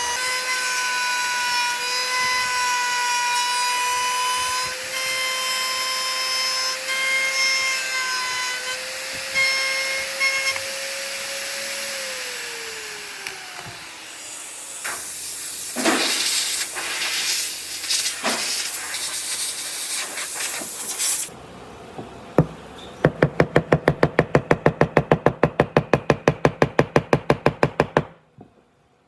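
An electric power tool's motor whines steadily, then winds down about twelve seconds in. A rough, noisy stretch of tool work follows. Near the end comes a rapid even run of sharp knocks, about seven a second, for about five seconds.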